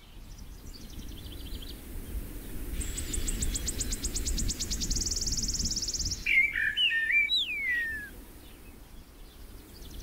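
Songbirds singing over a field: a short high trill, then a long high trill that speeds up from separate notes into a fast buzz over about three seconds, followed by a few whistled notes and one long falling whistle. A steady low rumble runs underneath.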